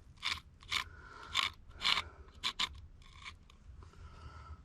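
Scraping at sawdust-like gunk inside an engine, in a string of short scrapes for about three seconds that then die down to lighter scratching.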